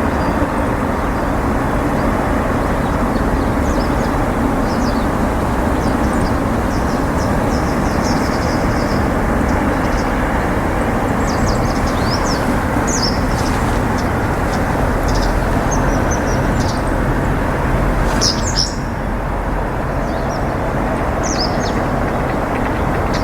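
Small birds giving short, high chirps again and again over a loud, steady low background rumble, with the most prominent chirps about three quarters of the way through.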